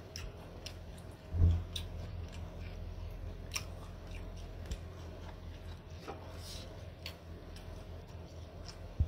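A person chewing a bite of canned octopus with the mouth closed: soft wet clicks and smacks every second or so over a steady low hum, with one low thump about a second and a half in.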